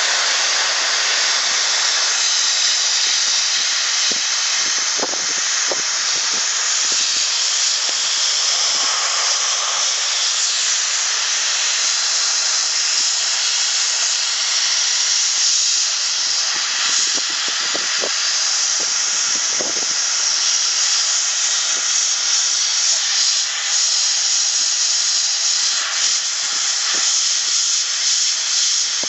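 Central Pneumatic #95793 gravity-feed sandblasting gun blasting continuously: a loud, steady hiss of compressed air carrying blast media.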